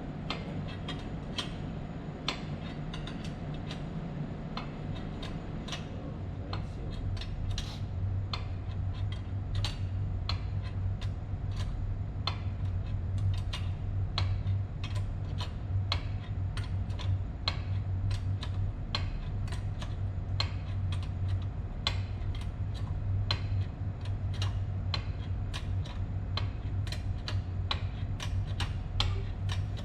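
Steady low machine hum, stronger from about six seconds in, with a run of light, irregularly spaced metallic ticks and clicks about one or two a second.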